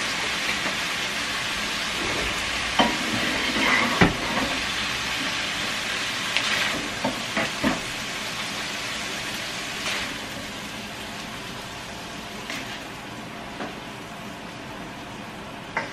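Ground meat frying and sizzling in a pan, slowly getting quieter. A metal spoon clinks and scrapes against the pan as the meat is scooped out into a second pan.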